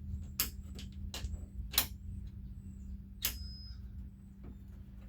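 A 1994 Jeep Wrangler's door latch being worked by hand: a series of sharp clicks and knocks, about six in all, the loudest a little under two seconds in. The latch is not releasing properly.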